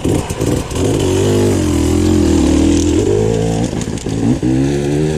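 Yamaha WR-F enduro bike's single-cylinder four-stroke engine pulling under load, its pitch falling and rising as the throttle is worked, with a brief drop about four seconds in.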